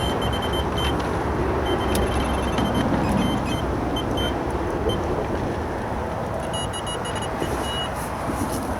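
Steady traffic noise from a busy road bridge, with several short runs of rapid high-pitched electronic beeps from a carp bite alarm.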